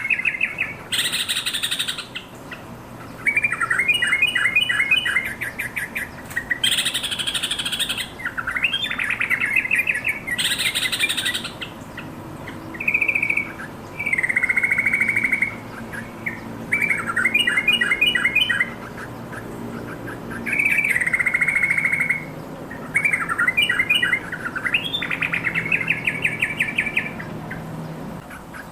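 Yellow-vented bulbul singing in repeated bursts of bubbly, chattering phrases, each a second or two long with short pauses between.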